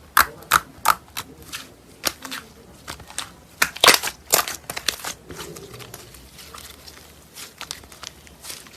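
Slime being pressed and squeezed by hand close to the microphone. It gives off irregular sharp pops and crackles, loudest about four seconds in and sparser after five seconds.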